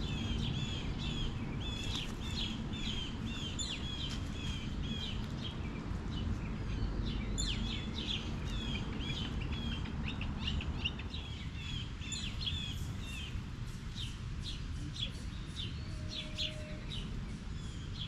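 Songbirds chirping and singing in quick runs of short high notes, over a steady low rumble of outdoor background noise.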